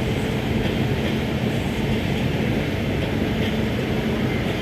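A train running past at speed: a steady, loud rumble of wheels on rail, with a low hum and faint clicks over the rail joints.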